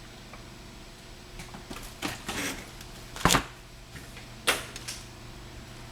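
Handling noises: a few short scrapes and clicks, then two sharp knocks, the louder a little past halfway, over a steady low hum.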